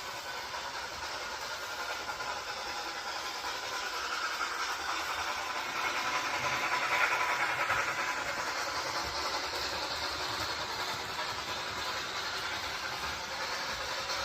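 A train running, growing louder to a peak about halfway through and then easing off, as if passing by.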